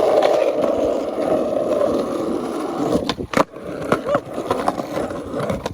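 Skateboard wheels rolling on pavement, a steady rumble, with a brief break and a few sharp clacks about three seconds in.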